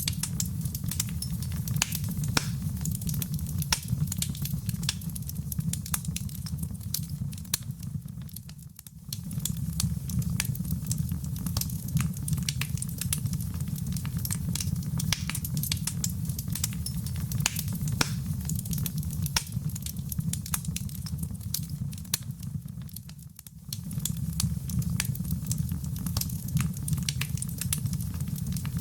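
Wood fire in a fireplace crackling, with a steady low rumble of flames under many sharp pops and snaps. The whole sound dips briefly twice, about a third of the way in and again about three-quarters through.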